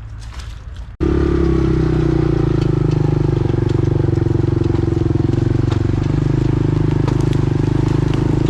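A quad (ATV) engine running at a steady speed, with an even, rapid pulsing. It cuts in abruptly about a second in.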